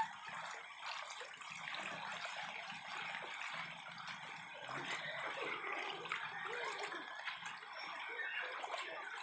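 Floodwater trickling and lapping, a steady, soft watery sound.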